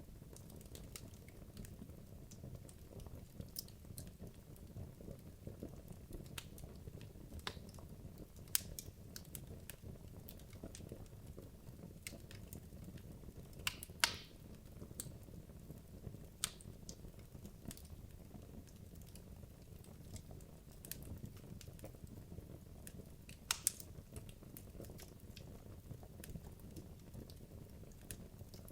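Wood logs burning in a fireplace: a low steady rumble of the flames with irregular sharp crackles and pops, a few louder pops standing out, the loudest about 14 seconds in.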